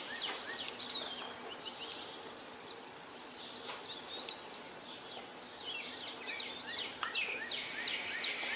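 Songbirds chirping and singing: short, quick phrases of high notes, the loudest about a second in and about four seconds in, with busier chirping in the last few seconds.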